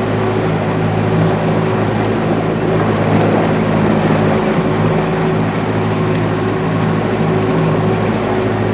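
A boat's engine running at a steady speed, with water and wind noise underneath.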